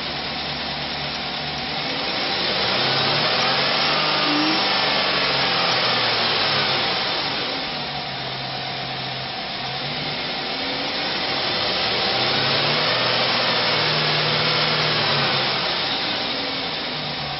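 The pickup's 5.3-litre V8 running under the hood with a steady hiss of fan and intake, revved up twice and held for several seconds each time before settling back.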